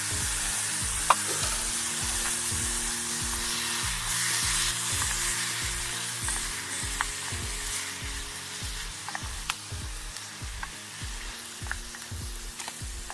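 Freshly added vegetables sizzling as they fry in hot oil, with a utensil stirring and clicking now and then against the pot. The sizzle eases off gradually over the second half.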